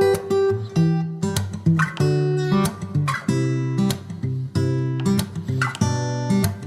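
Background music of strummed acoustic guitar, chords struck about once a second.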